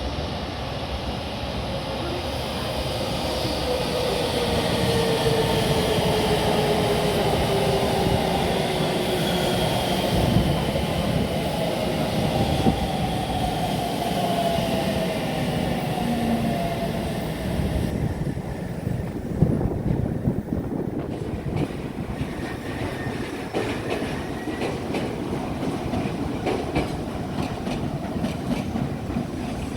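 Electric train running through the station: a motor whine falls steadily in pitch for about the first half, then gives way to a rumble with wheels clicking over rail joints.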